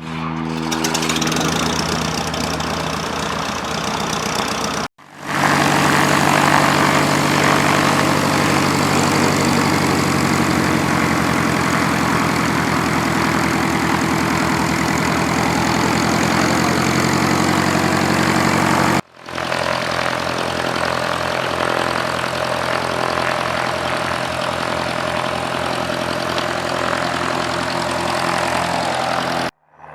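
Light propeller airplane's engine running steadily and loud, close by. It comes as three stretches joined by abrupt cuts about five and nineteen seconds in.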